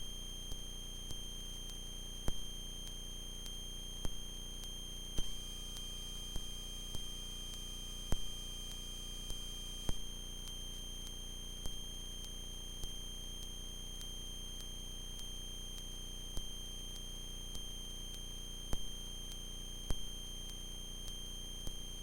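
Steady high-pitched electrical whine in the aircraft's intercom audio feed, with no speech. A second, fainter tone joins it about five seconds in and stops about halfway through, and faint clicks recur every second or so.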